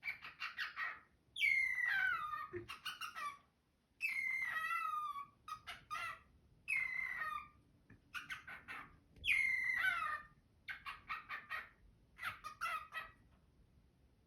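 Cockatiel singing: phrases of rapid chirps mixed with falling whistled notes, repeated with short gaps, ending about a second before the close.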